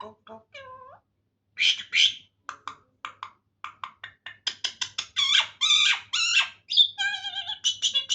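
Pet myna vocalizing: a short meow-like gliding note, then loud harsh squawks, quick clicks and dense chatter, ending in a wavering whistled note near the end.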